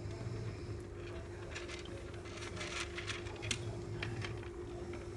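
Soft scattered clicks and rustles, a small cluster of them in the middle, over a steady low hum.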